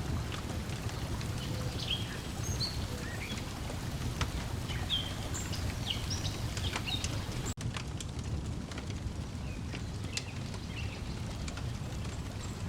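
Layered lakeside ambience: water lapping over a steady low rumble, short bird chirps, and sharp pops of a crackling wood fire. The sound drops out for an instant a little past halfway.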